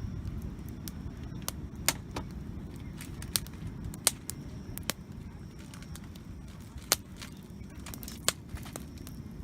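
Wood campfire crackling, with irregular sharp pops and snaps, a few louder than the rest, over a low steady rumble.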